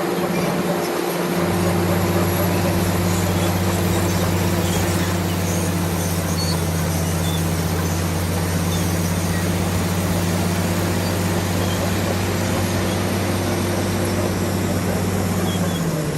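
Bulldozer's diesel engine running steadily, a low hum over a noisy machinery wash, with a brief dip and recovery in pitch near the end.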